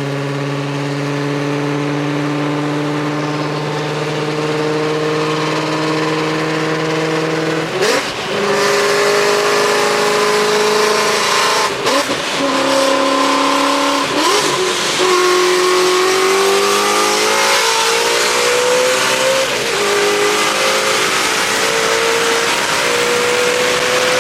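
Car engine under way: a steady pull for the first several seconds, pitch drops at gear changes about eight seconds in and again around fourteen seconds, then rises steadily as the car accelerates.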